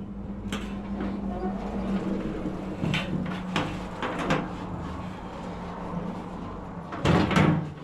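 Workshop knocking and clatter: a few sharp knocks, such as boards or tools being handled, over a steady low hum.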